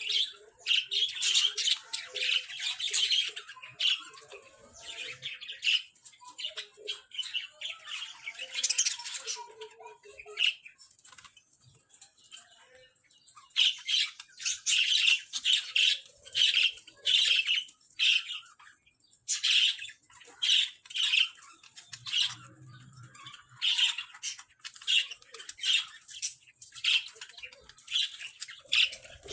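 Budgerigars chirping and chattering in rapid bursts of high chirps and squawks, with short lulls between bouts.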